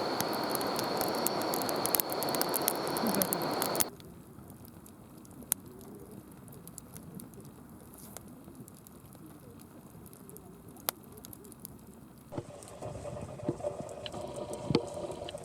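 A wood fire burning in a fire pit. First a loud rushing noise with many sharp crackles, which stops abruptly about four seconds in. After that comes a quieter crackling with scattered pops, which grows a little fuller near the end.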